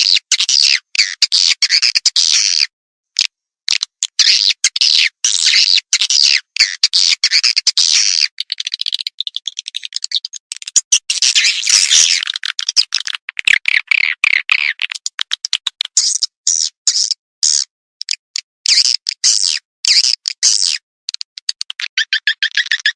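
Swiftlet calling sound: rapid, high-pitched twittering and chirping in quick runs broken by short gaps. This is the lure call played to draw swiftlets into a nesting house.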